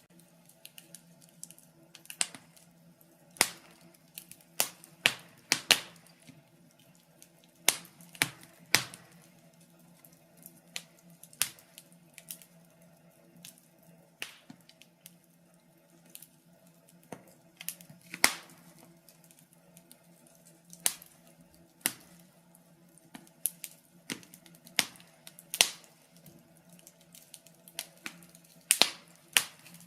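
Wood fire crackling in a fireplace: irregular sharp pops and snaps, sometimes two or three close together, over a faint low steady hum.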